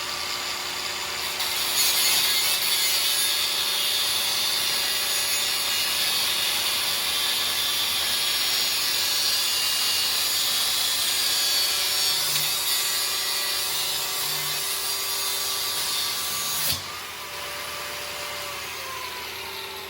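Handheld angle grinder running and cutting into a metal part: a steady motor whine with a loud, even hiss of the disc in the cut. The cutting noise begins about a second and a half in and stops abruptly near the end, while the motor keeps running.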